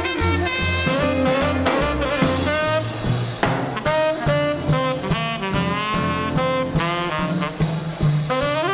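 Small-group swing band playing live: saxophone and trumpet lines over a steady beat of bass notes, with piano and drums.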